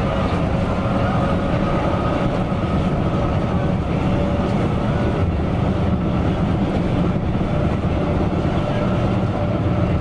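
Coach bus running at steady speed, heard from inside: an even drone of engine and road noise with a low rumble.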